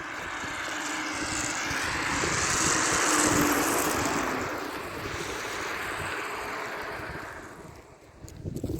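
A road vehicle passing by: its noise swells to a peak about three seconds in, then fades away over the next few seconds.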